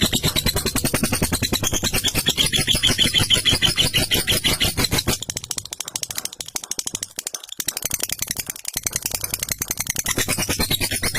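Lovebird's long ngekek: a continuous, rapid rattling chatter of harsh notes. It weakens about halfway through, then picks up again near the end.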